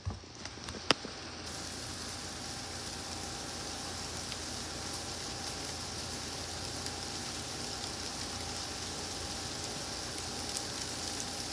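Steady rain falling, a continuous even hiss, with a single sharp click about a second in.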